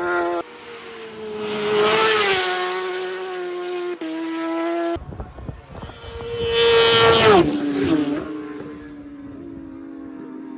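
Superbikes at racing speed passing close by, their high-revving engines rising to a loud peak and then dropping in pitch as each goes past. Two loud passes come about two seconds in and about seven seconds in, and the sound breaks off abruptly a few times between clips.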